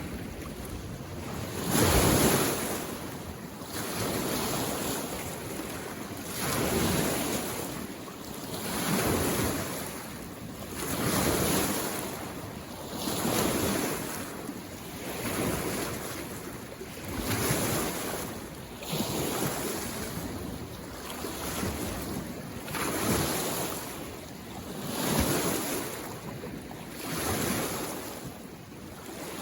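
Small lake waves lapping on the shore, a rhythmic wash of water rising and falling about every two seconds, with some wind on the microphone.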